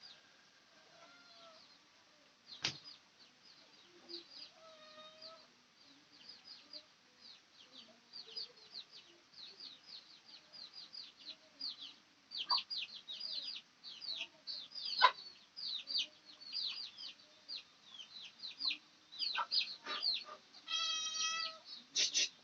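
Chickens clucking and calling, with many short high chirps repeating throughout and a louder drawn-out call near the end.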